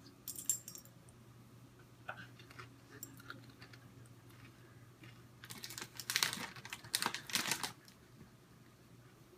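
Chips crackling and crunching in three bursts: a short one near the start, a few scattered clicks about two to three seconds in, and a longer dense run from about five and a half to eight seconds.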